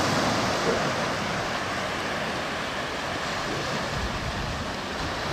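Sea surf washing onto a beach, a steady rushing that eases slightly, with some wind on the microphone.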